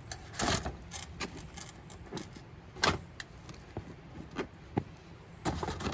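Crinkling of aluminium foil and soft knocks as cut red potatoes are dropped one by one into a foil packet.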